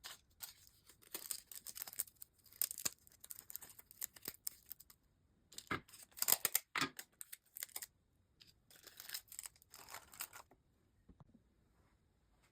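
Construction paper being snipped with scissors and torn, in three clusters of quick, short strokes that die away about two seconds before the end.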